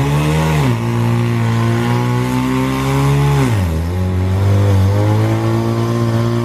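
Mitsubishi Lancer Evolution's turbocharged four-cylinder engine held at high revs, dropping sharply twice and climbing back each time.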